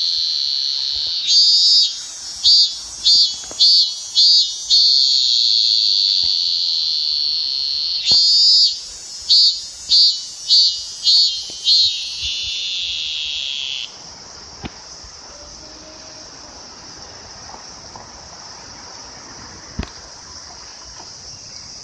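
Robust cicada (minmin-zemi) singing close by. A loud, high, steady drone twice breaks into a run of about six pulsing 'min-min-min' notes, then stops abruptly about 14 seconds in. A fainter cicada drone carries on behind it.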